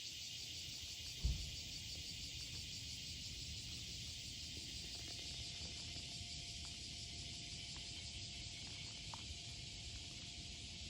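Steady high-pitched chirring of insects, with one low thump about a second in.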